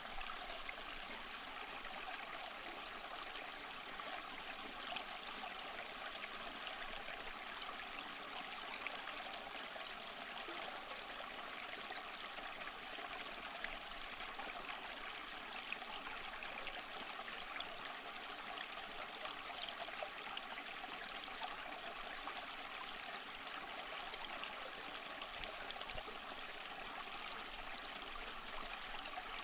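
Waterfall running steadily: an even rush of falling water with small splashes flicking through it.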